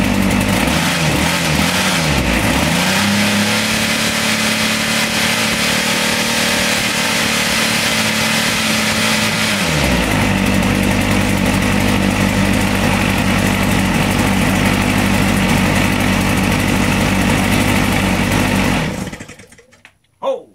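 32 cc two-stroke leaf blower engine running loud, revved up and down a few times, then held at high revs for several seconds before dropping back to a steady lower speed. Near the end the engine dies away, followed by a single short knock.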